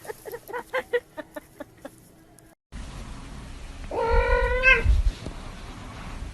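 A domestic cat meows once, loudly, about four seconds in, over a low rumbling background. Before that, a run of short, quick squeaky calls ends in a brief cut.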